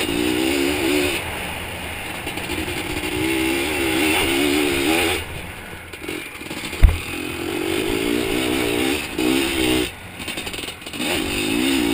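Zabel 700 two-stroke sidecar-motocross engine running in bursts of throttle, its pitch wavering up and down, with short lulls off the gas between. About seven seconds in there is a single sharp thump, the loudest moment.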